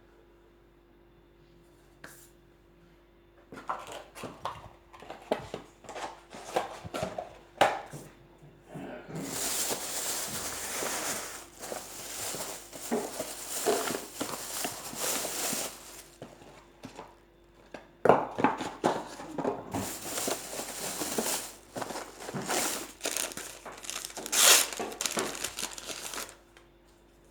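Rustling and crinkling of handled wrappings, with long stretches of tearing noise and a few sharp knocks, starting a few seconds in.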